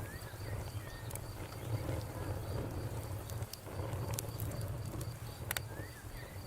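Campfire crackling, with scattered sharp pops over a low steady rumble from the burning wood; one pop about five and a half seconds in stands out. Crickets chirp in a steady, even rhythm in the background.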